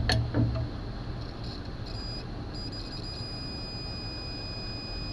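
A multimeter's continuity beeper as its probes touch an ignition condenser: a couple of clicks, a broken beep at about two seconds, then a steady high beep held from about two and a half seconds in. The meter reads zero ohms, the sign that the condenser is shorted internally.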